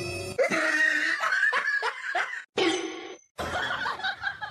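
Laughter in short, choppy bursts, broken twice by brief drop-outs.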